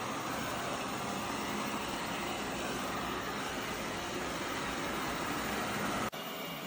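Robot vacuum cleaner running, a steady noise of motor and suction. About six seconds in, the sound cuts abruptly to a quieter, thinner noise.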